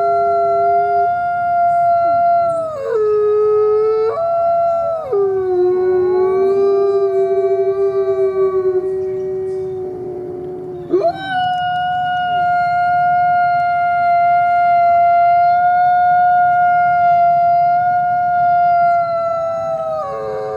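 Coyotes howling together: several long, held notes at different pitches overlapping, the pitches stepping up and down, with a wavering stretch and a short break about eleven seconds in before the howling resumes.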